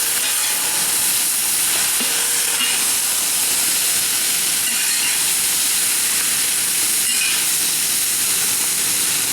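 Stir-fry sizzling in a hot carbon-steel wok, a steady hiss throughout.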